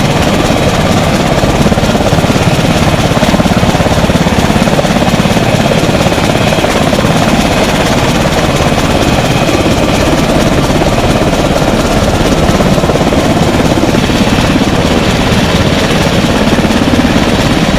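Helicopter running close by, a loud, steady noise with a rapid even beat throughout.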